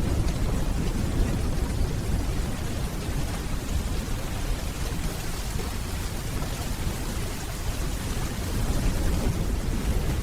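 Steady rainfall with a deep, low rumble of distant thunder underneath, swelling slightly near the end.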